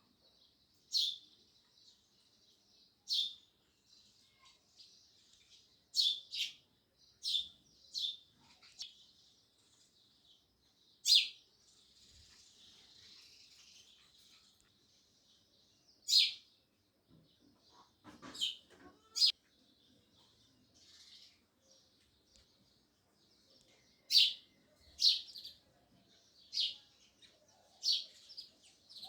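House sparrows chirping: single sharp chirps every second or two, some in quick pairs, with a quieter spell of softer chatter about twelve seconds in.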